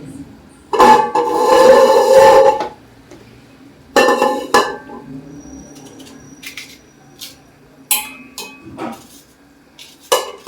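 Kitchen tap water running in two short bursts, about a second in and again around four seconds, as vegetables are rinsed. This is followed by scattered light clinks and knocks of dishes and utensils.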